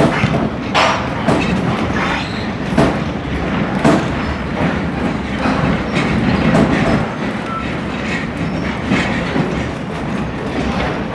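Passenger railroad coach rolling along the track: a steady rumble with sharp wheel clicks over the rail joints at uneven intervals.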